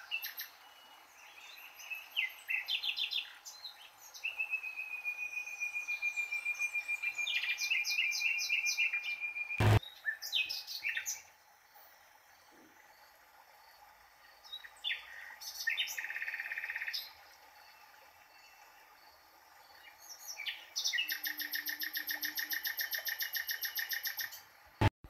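Songbird singing: rapid chirps and trills in phrases, with one long steady whistled note held for several seconds and quieter gaps between phrases. A sharp click about ten seconds in and another near the end.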